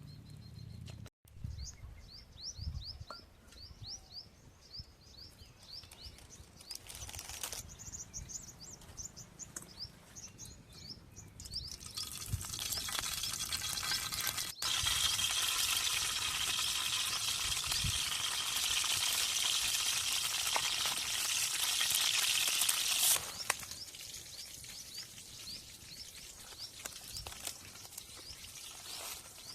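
Small birds chirping over and over in quick short notes. Then a loud steady hiss sets in about twelve seconds in and cuts off about eleven seconds later.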